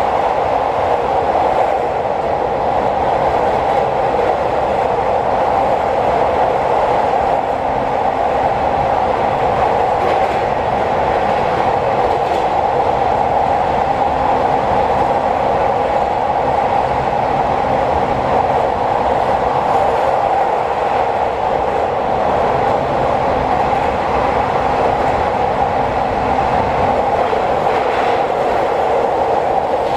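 Aoimori Railway train heard from inside the passenger car while running at speed: a loud, steady rumbling roar of wheels on rails.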